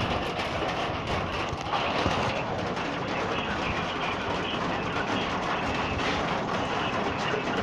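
Hail falling in a thunderstorm: a steady, dense rattle of many small hailstones striking.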